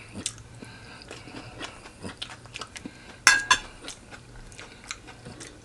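A person chewing and biting fried chicken close to the microphone, with many small wet mouth clicks and one louder bite about three seconds in.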